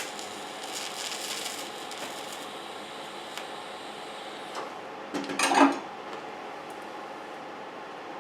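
Workshop handling noises of tools and parts: a sharp click, a short rustling scrape, then a louder clatter with a brief ring about five seconds in, over a faint steady hum.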